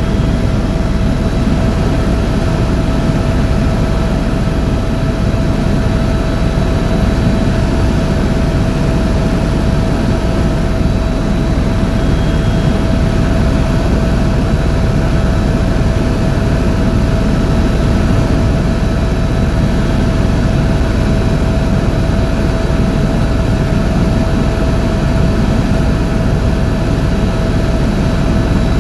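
Tour helicopter running: a loud, unchanging low drone of turbine and rotor with a constant whine held above it.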